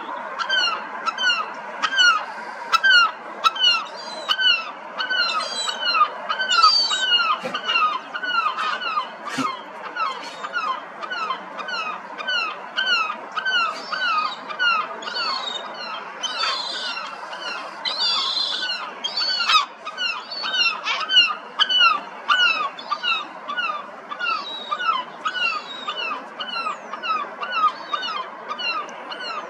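Birds calling over and over, about two or three short downward-sliding notes a second, with a few louder, higher calls in the middle.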